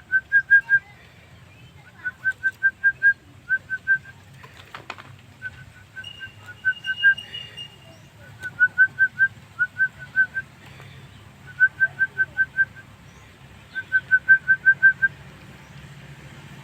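Javan myna (jalak kebo) singing in bursts of four to six quick, rising whistled notes, about nine bursts spaced a second or two apart, over a steady low hum.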